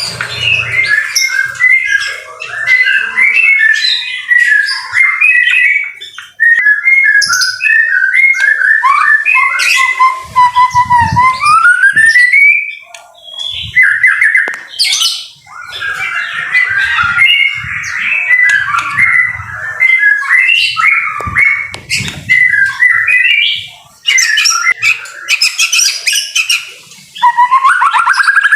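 White-rumped shama singing a loud, varied song of rapid whistled and chattering phrases, with a long rising whistle about twelve seconds in and a fast rising trill near the end.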